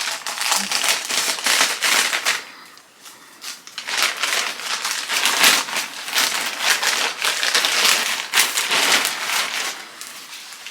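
Packaging crinkling and rustling as an item is unwrapped by hand, in quick irregular crackles with a short lull a few seconds in. It is quieter near the end.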